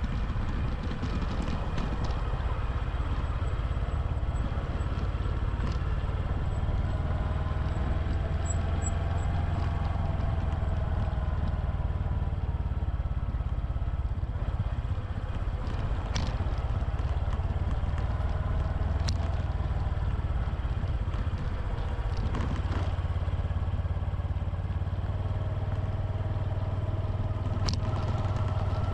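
Honda Super Cub's single-cylinder four-stroke engine running steadily, its pitch rising and falling a little, with a few sharp clicks now and then.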